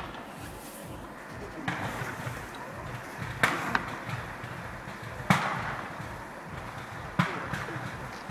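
Fireworks bangs going off one after another, about five sharp reports spaced a second or two apart, each trailing away in an echo.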